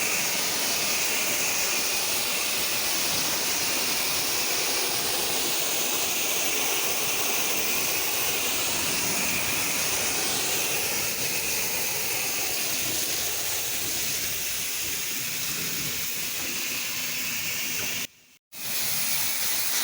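Pressure washer spraying water in a steady, high hiss while rinsing down a house. The sound cuts out for about half a second near the end, then resumes.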